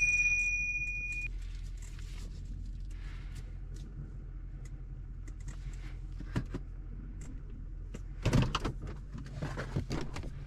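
A ringing metallic tone dies away in the first second, then scattered clinks and a burst of knocks about eight seconds in, over a low steady hum.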